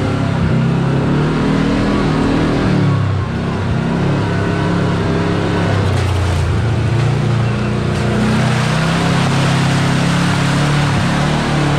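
Side-by-side UTV engine running under varying throttle, its pitch rising and falling as it works along the trail, with a brief easing off about three seconds in.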